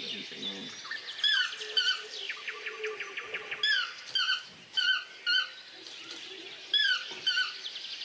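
Birds calling: a series of short, quick whistled notes that bend over and drop in pitch, repeated irregularly about a dozen times, with a fast trill about two to three seconds in.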